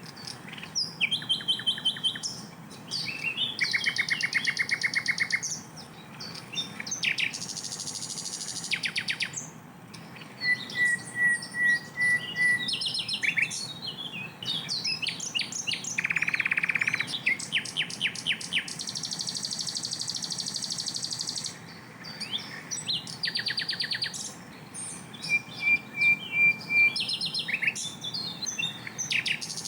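Sikatan londo flycatcher singing a long run of loud, rapid-fire phrases: fast rattling trills of tightly repeated notes and chattering bursts, with short whistled notes strung in between. These dense 'shots' are what bird keepers use to tutor fighting songbirds such as the magpie-robin.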